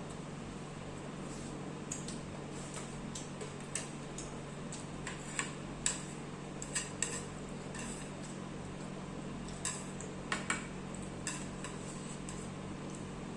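Eating utensils clinking and scraping against a plate in irregular sharp clicks, the loudest in the middle, over a steady low hum.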